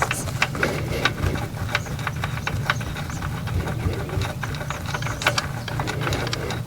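Irregular clicks and taps of hand tools working on metal engine parts, over a steady low hum.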